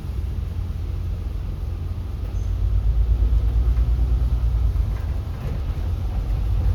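City bus in motion, heard from inside: a steady low rumble of engine and road noise that grows a little louder about three seconds in.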